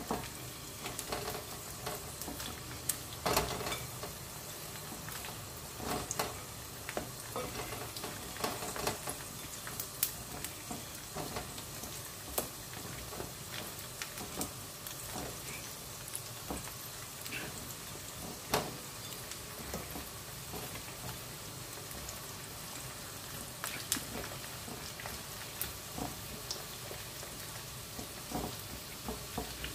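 Turkey wing pieces frying in hot oil in a pan for their second fry: a steady sizzle with scattered pops and crackles. A spatula clicks against the pan now and then as pieces are added and stirred.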